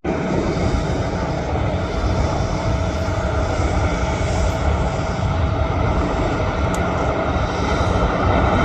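Jet airliner engines running, a steady rushing noise with a thin steady whine in it.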